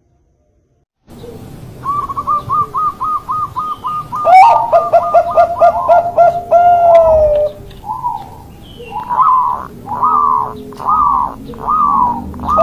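Zebra doves (perkutut) cooing. After about a second of silence, a fast run of short coos starts, a second lower-pitched dove joins about three seconds in, then the coos come slower, about one a second.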